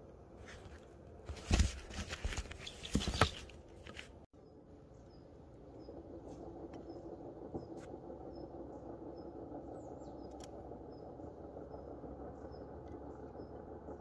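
Outdoor ambience. For the first few seconds, loud crackling and rustling bursts on the microphone. After an abrupt cut, a steady low background hum with a small bird's short, high chirp repeated about twice a second.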